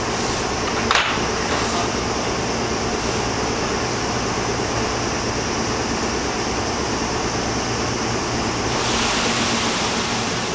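Steady hum and whir of a stationary electric commuter train's air-conditioning and auxiliary equipment. There is a single sharp click about a second in, and a brighter hiss joins near the end.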